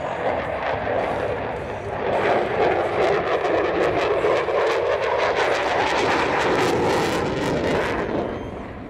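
F-16 Fighting Falcon fighter jet's engine noise on a flypast. The noise swells about two seconds in, stays loud with a crackling edge, and fades near the end as the jet moves away.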